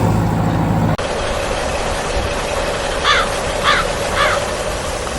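Three short, harsh bird calls about half a second apart, over a steady outdoor background with a faint hum. A different steady sound cuts off abruptly about a second in.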